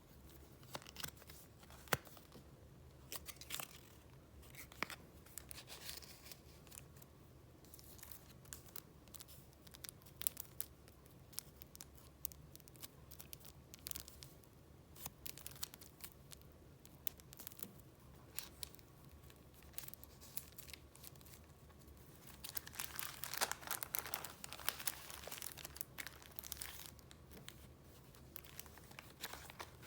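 Paper being handled: scattered soft rustles and crisp clicks of sheets being turned and touched, with a denser burst of crinkling about 23 seconds in that lasts a few seconds.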